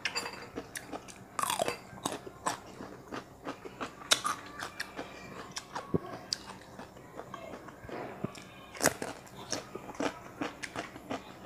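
Close-up chewing of crisp cucumber: a run of wet crunches and small mouth clicks, with louder bites about a second and a half, four and nine seconds in, picked up close on a clip-on microphone.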